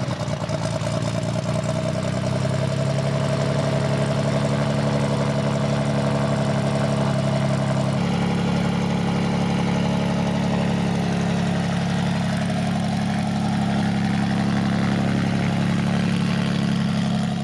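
Saberwing light airplane's turbocharged Corvair engine running steadily, its tone shifting abruptly a couple of times.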